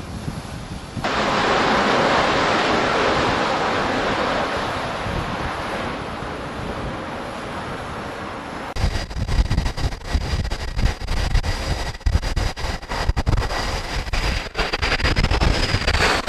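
Steady rushing noise of wind and sea, slowly fading. About nine seconds in it cuts to a gusty low rumble, with wind buffeting the microphone and a faint steady high whine.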